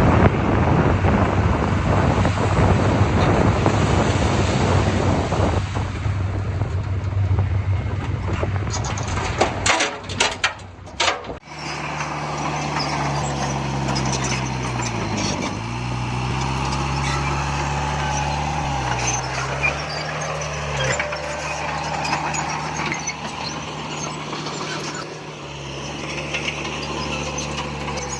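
Heavy diesel engines of earthmoving machinery working, loud and continuous. About eleven seconds in the sound cuts to a steadier engine note whose pitch dips briefly several times, as the engine takes and sheds load.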